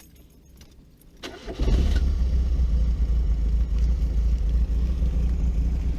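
1971 Fiat 124 Spider's twin-cam four-cylinder engine cranking briefly and catching about a second and a half in, then idling steadily. It runs with no knocking, on fresh oil.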